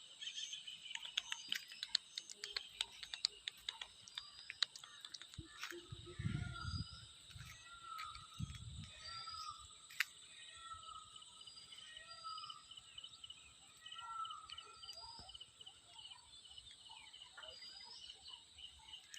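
Faint countryside ambience: a bird repeats a short call about every second and a half, with higher chirps, over a steady high insect drone. A run of small clicks comes in the first few seconds, and two brief low rumbles come near the middle.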